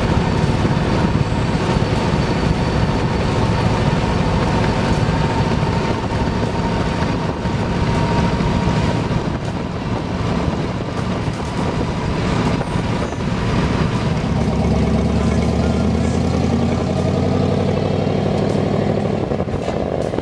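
Hot rod car engine running loudly, with a steadier low note settling in about two-thirds of the way through.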